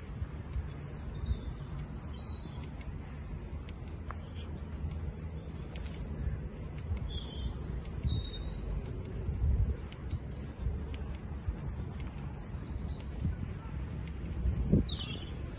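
Birds chirping and calling, short high chirps scattered throughout, over a steady low rumble.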